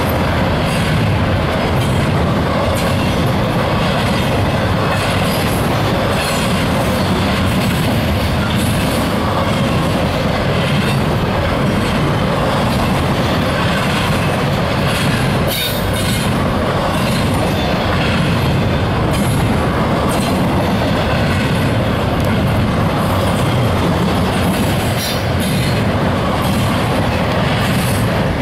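BNSF double-stack intermodal train's container well cars rolling past close by: a steady loud rumble of steel wheels on the rails with frequent clicks and rattles.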